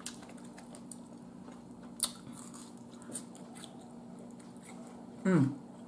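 Person chewing a mouthful of coleslaw close to the microphone, with a sharp mouth click about two seconds in and a brief vocal sound near the end.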